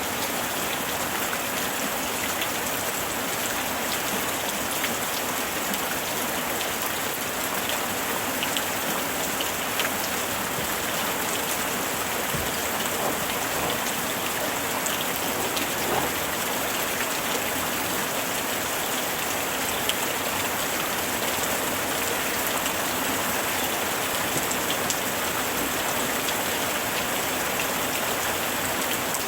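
Steady summer rain falling, a dense even hiss with scattered individual drops ticking on a surface.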